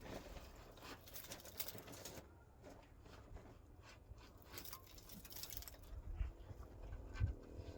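Faint scraping with scattered light taps and clicks, typical of mortar being spread and worked during masonry.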